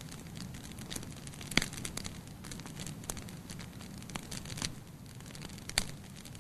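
Wood fire burning in a fireplace: a steady low rumble of flames with irregular sharp crackles and pops, two louder pops about a second and a half in and near the end.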